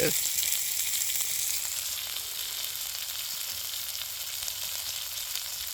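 A dying campfire burned down to embers, hissing steadily with a few faint crackles.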